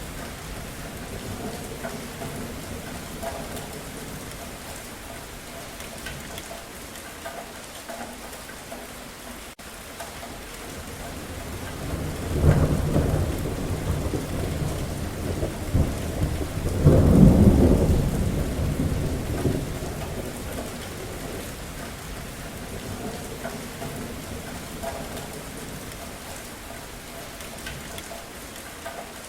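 Steady rain falling, with a long roll of thunder that builds a little before the middle, peaks just after it, then rumbles away over several seconds.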